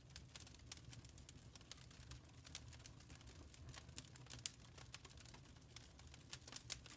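Faint crackling of a fire in a fireplace: irregular small snaps and pops over a low steady rumble.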